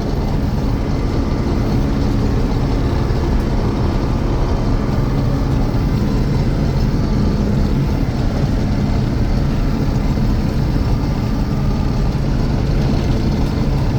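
1982 John Deere 6620 Turbo combine running steadily under load while harvesting soybeans: an even turbocharged diesel engine drone mixed with the rumble of its machinery, holding a constant pitch.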